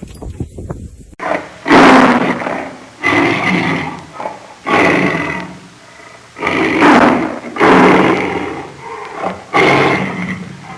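A large animal giving about seven loud, harsh calls in quick succession, starting after a cut about a second in.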